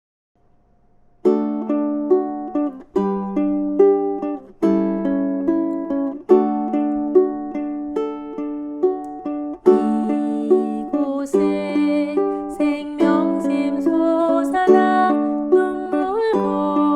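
Ukulele playing a praise-song accompaniment in fingerpicked arpeggios, starting about a second in after a brief silence, each bar opening with all four strings plucked together.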